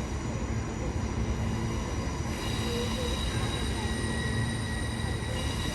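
Queensland Rail electric suburban train running along the platform with a steady low rumble. High, steady squealing tones join about two seconds in.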